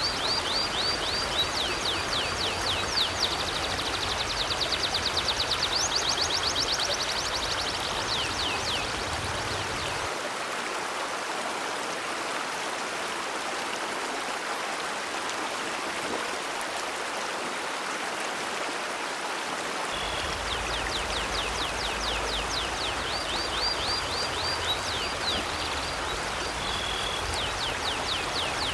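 River water flowing steadily, with a bird's rapid, high chirping trills over it for the first several seconds and again from about two-thirds of the way in.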